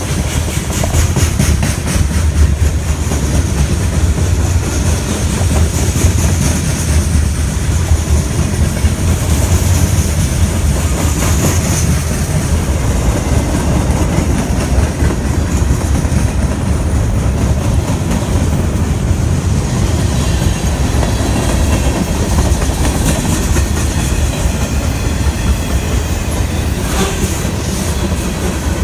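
A freight train's cars rolling past with a steady, loud rumble, the wheels clicking over the rail joints, and a faint high wheel squeal now and then in the first half.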